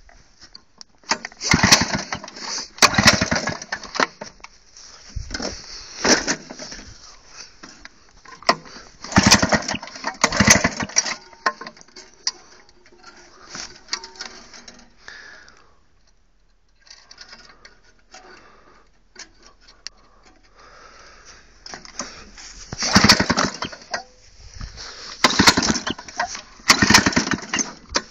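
Two-stroke lawn mower engine heard in uneven bursts of a second or two, with quieter gaps between rather than a steady run.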